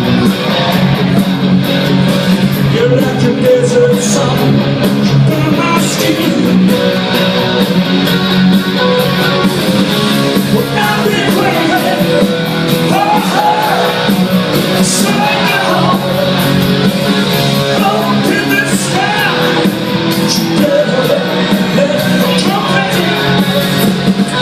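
Rock band playing live with loud electric guitars; a voice sings over the band from about ten seconds in.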